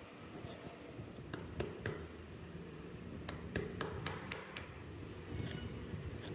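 Hand carving tools tapping on wood: scattered sharp taps, with a quick run of about six taps at roughly four a second in the middle.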